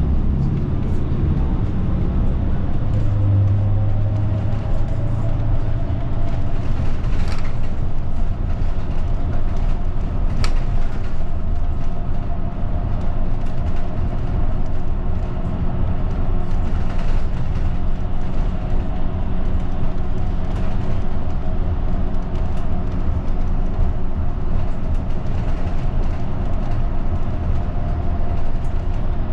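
Route bus heard from inside the cabin, with engine and road rumble as it drives. A whine rises in pitch over the first few seconds as the bus gathers speed, then runs steady. A couple of light rattles or clicks come in between.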